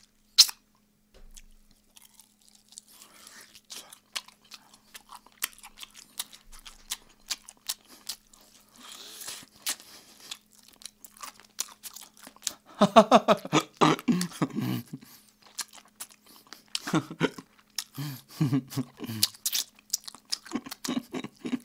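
Close-miked chewing and deliberate lip-smacking on chicken, a run of small wet mouth clicks that grows louder and denser in the second half, with a few short murmurs of the eater's voice among the chews.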